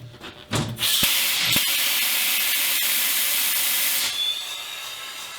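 Bead-seating air jets of a John Bean tire changer blasting compressed air into the tire: a loud hiss starting about a second in, with two knocks near its start, lasting about three seconds, then dropping to a quieter steady hiss as air keeps filling the tire.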